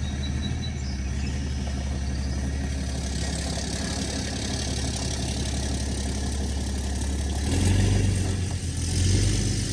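A vehicle engine running steadily at low speed, rising in level twice near the end.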